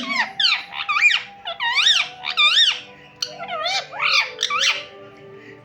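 Pet parrot making a quick run of shrill whistled squeaks, about three a second, each swooping up and down in pitch; the chirps stop about a second before the end.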